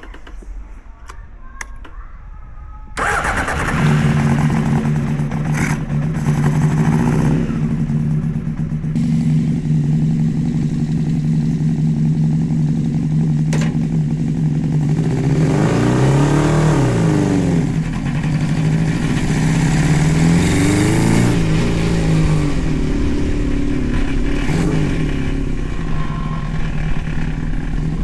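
600cc engine of a home-built go-kart running loud from about three seconds in, holding a steady note, with the revs rising and falling twice near the middle.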